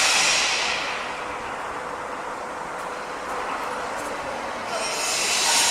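Construction site noise: a loud high-pitched hissing from the site's machinery that dies away about a second in and starts again near the end, over a steady general din with a faint low hum.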